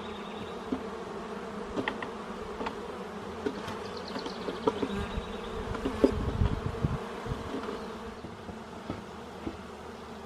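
Honeybees buzzing steadily around an open hive, with scattered clicks and knocks and a louder low thump about six seconds in.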